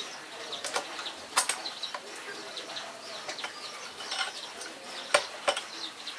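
Small birds chirping, with a handful of sharp clicks and knocks scattered among them, the loudest about five seconds in.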